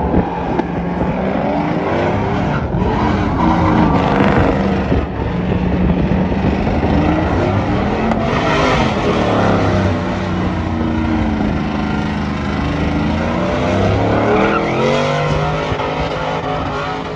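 Truck engine revving hard during a burnout, its revs rising and falling several times over the hiss of spinning tyres.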